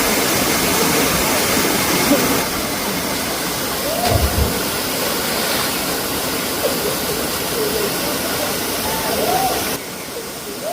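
Waterfall rushing, a steady, loud, full-range roar, with people's voices faint beneath it; the roar drops away abruptly near the end.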